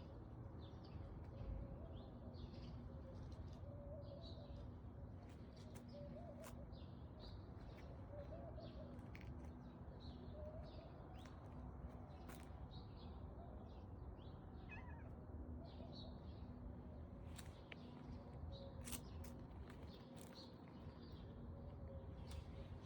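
Cat meowing faintly again and again in short wavering calls, with short high chirps in the background.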